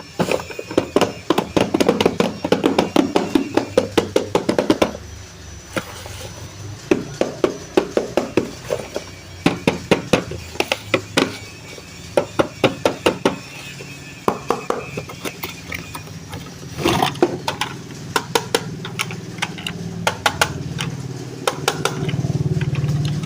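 Toy packaging being handled and opened by hand: rapid clicks, taps and rustles in uneven runs. A low steady hum builds over the last few seconds.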